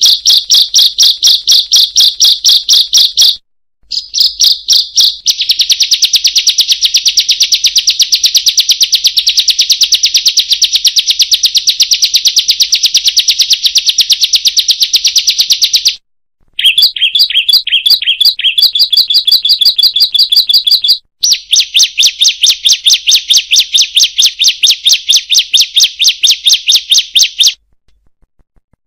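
Bar-winged prinia (ciblek) singing: a loud, rapid run of sharp repeated 'kriek' notes. It comes in long bursts that stop abruptly a few times for a brief silence.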